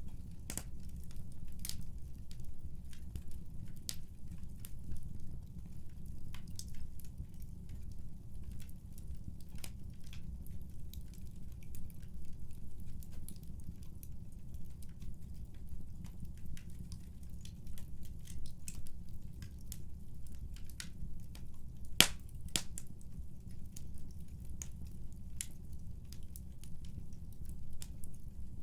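Wood fire burning in a fireplace: scattered sharp crackles and pops over a steady low rumble, with one louder pop about three quarters of the way through.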